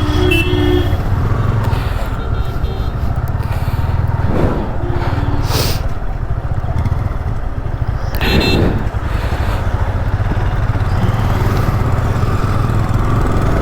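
Motorcycle on the move, with its engine and road noise running steadily. A few brief tonal sounds cut in: one about a second in, one near the middle and one about two-thirds of the way through.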